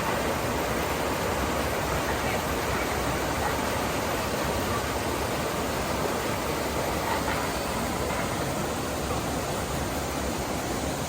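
Waterfall: falling water rushing with a steady, unbroken hiss.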